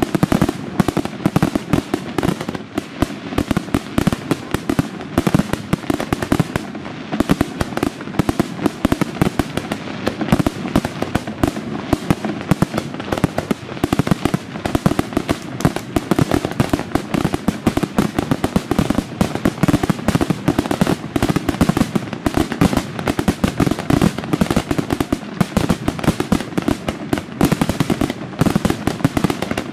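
Aerial firework shells bursting in a dense, unbroken barrage, many bangs a second overlapping one another throughout.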